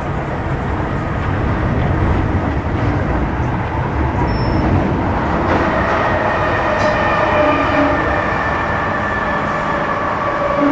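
Inside a Metro Cammell M-Train electric multiple unit with GEC GTO chopper traction, running between stations: a steady rumble of wheels on track. About halfway through, a set of whining tones from the traction equipment comes in over it.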